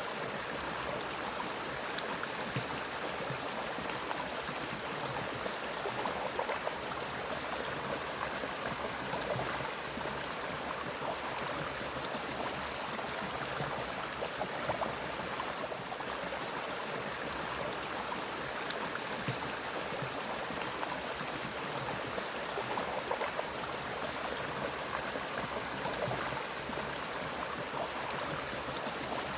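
Mountain stream flowing steadily through forest, an even rushing of water. A steady high-pitched tone sits above it.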